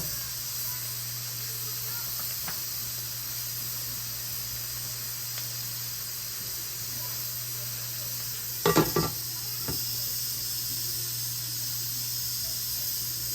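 Potato pieces frying in hot oil in a pan, a steady sizzle. About nine seconds in there is a brief clatter of a utensil knocking against the pan.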